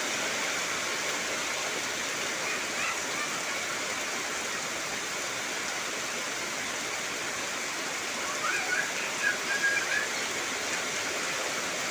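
Heavy rain falling steadily, an even hiss. A few short high chirps sound over it around three-quarters of the way through.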